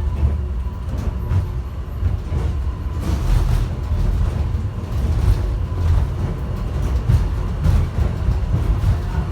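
Airport people-mover subway train heard from inside the car while it runs along the guideway: a steady low rumble with a faint continuous whine. Scattered clicks and rattles come in from about three seconds in.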